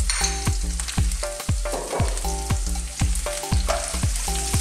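Sliced red onion, garlic, ginger and red chili sizzling in hot oil in a wok, under background music with a steady beat and bass notes.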